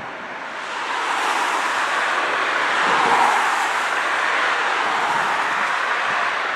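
Jet engine noise from a Boeing 737-700 with CFM56-7B turbofans, a steady rushing noise that grows louder about a second in and peaks around the middle.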